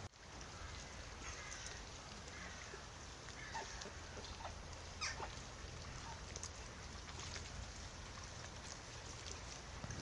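Faint scattered bird calls over a steady background hiss, with a single sharp click about five seconds in.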